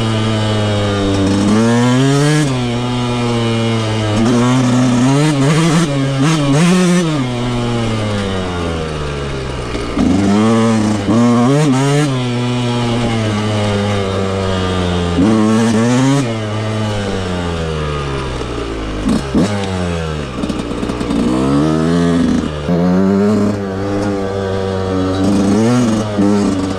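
Yamaha YZ125 two-stroke dirt bike engine under way, its revs rising and falling over and over as the throttle is opened and closed through the gears, with several short sharp blips of the throttle.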